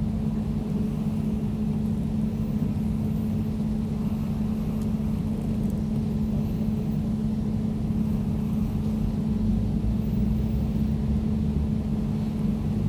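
Air conditioner running steadily: an even low hum with a faint airy hiss above it.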